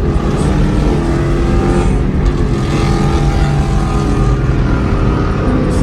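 A car engine running steadily, a deep low rumble with an even drone.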